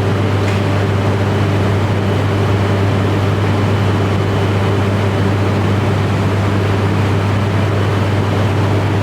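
Shinkansen train standing at the platform: a steady, even electric hum with a strong low drone, from its running electrical equipment and cooling fans.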